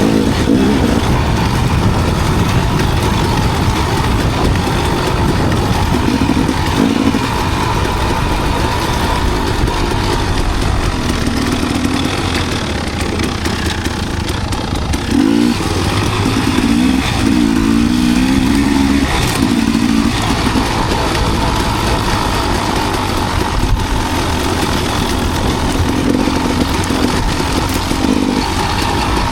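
Enduro dirt bike engine running under way, the pitch rising and falling with the throttle, most plainly in the middle of the stretch.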